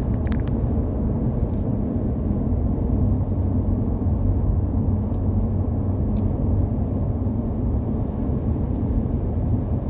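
Steady low rumble of a semi-truck on the move: engine drone and road noise.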